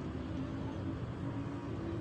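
Steady low engine rumble with a faint hum, with no knocks or strikes.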